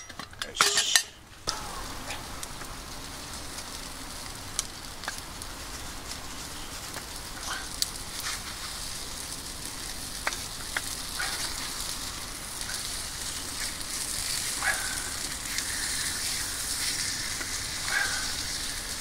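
Takoyaki batter sizzling in a cast-iron takoyaki pan over a wood fire: a steady high hiss that grows a little louder as it cooks. There is a brief clatter about a second in and a few light clicks as the balls are turned.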